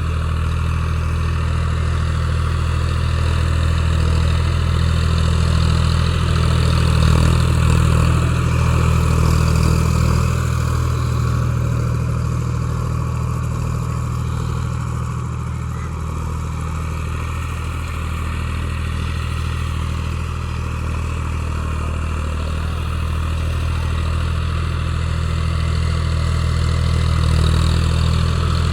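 Tractor engine running steadily, with a deep, even hum that swells a little in loudness now and then.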